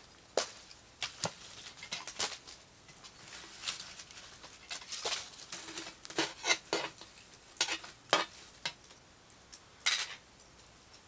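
Metal cookware being handled: irregular clinks, knocks and short scrapes of a cast-iron Dutch oven and metal utensils, with the busiest stretch around the middle and one of the loudest knocks near the end.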